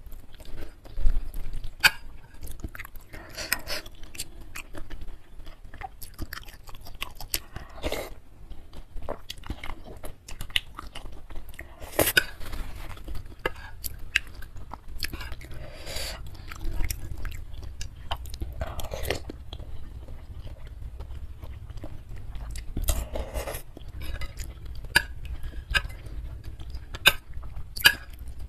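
Close-up chewing of mouthfuls of noodles and beef meatballs in soup, irregular and wet, with occasional clinks of metal cutlery against the bowl.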